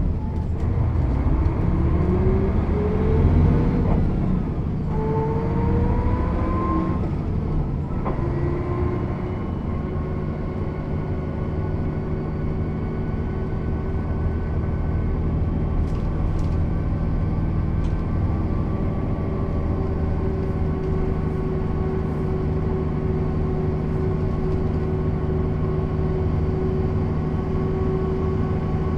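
Mercedes-Benz O 407 bus's diesel engine, with manual gearbox, pulling up through the gears: the pitch rises, drops at a gear change about four seconds in, rises again and drops at another change about eight seconds in, then the engine runs steadily at an even speed.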